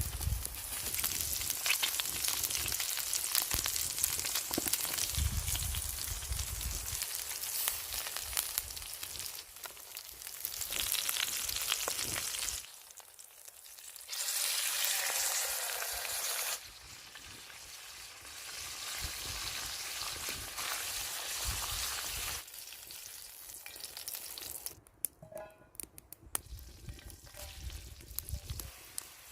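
Food sizzling and frying in a pan over a campfire, a steady hiss in several takes that change suddenly in loudness. It grows fainter near the end.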